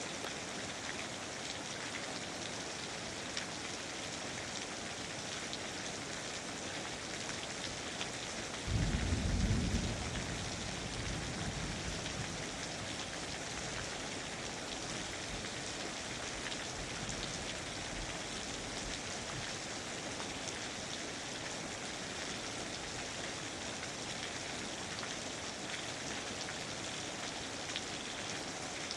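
Steady rain falling in a rainforest. About nine seconds in comes a sudden low rumble of thunder, loudest for about a second, which fades away over the next few seconds.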